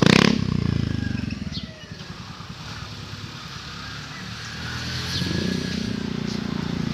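Yamaha Mio i 125 scooter's single-cylinder engine breathing through an Apido V3 aftermarket exhaust: a rev falls away to a low idle in the first second or two, then the throttle is opened a little past five seconds and the engine holds at a higher, steady speed.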